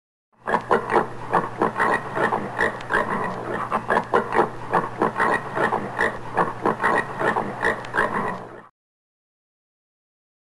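Common warthog giving a rapid series of short grunts, about three or four a second, over a steady low hum. It starts just after the beginning and cuts off abruptly near the end.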